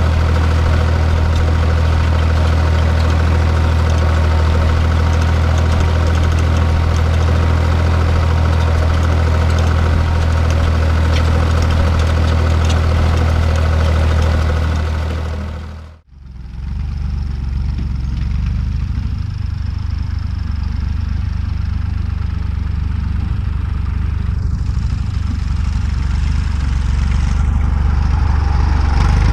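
Tractor diesel engine running steadily under a cultivating load, a deep drone with a busy mechanical clatter on top. About halfway through it fades out for a moment and comes back more muffled, with less clatter.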